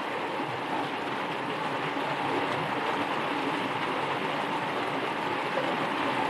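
Steady rain falling, an even rushing noise with no breaks or single drops standing out.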